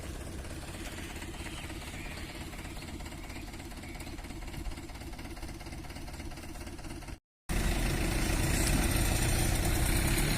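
Mahindra 585 DI tractor's diesel engine running steadily. About seven seconds in the sound cuts out for a moment and comes back louder and closer.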